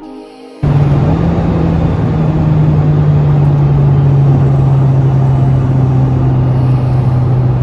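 Alpine A110's turbocharged four-cylinder engine running at cruising speed, heard from inside the cabin over heavy road and wind noise. It cuts in about half a second in, and its note sinks slowly as the revs ease off.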